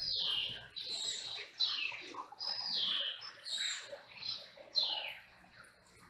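Several aviary birds calling, a busy run of high, clear calls that each slide downward in pitch and overlap one another.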